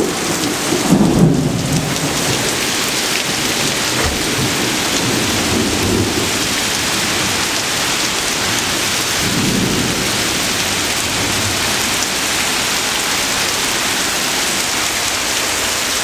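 Heavy thunderstorm rain pouring down in a steady, dense hiss, with a few low rumbling swells about a second in, around six seconds and near ten seconds.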